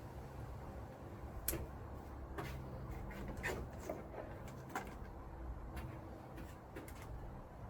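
Handling noise from stripping scrap wire: a few scattered light clicks and knocks, about eight over several seconds, over a low steady hum.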